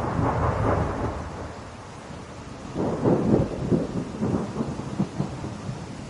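Steady rain with two rolls of thunder. One breaks suddenly at the start and fades. A second, longer crackling rumble comes about three seconds in.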